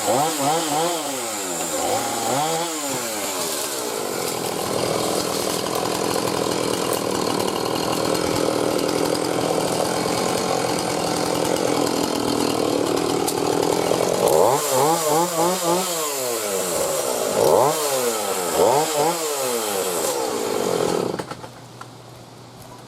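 Chainsaw cutting wood, its engine revved up and down several times with steadier running between, then cutting off near the end.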